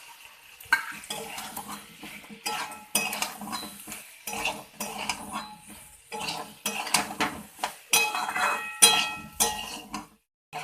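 A spoon stirring boiled potatoes into spice masala in a kadhai, scraping and knocking against the pan in irregular strokes, some with a short metallic ring, over a light sizzle.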